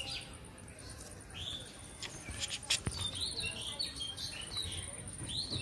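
Small birds chirping in short, quick rising and falling notes, with a few sharp clicks about two to three seconds in and a thin steady high-pitched tone behind.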